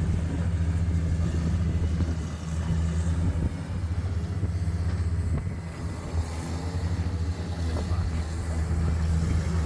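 Engine of heavy site machinery running steadily at low revs, easing off briefly about two and a half seconds in and again around six seconds.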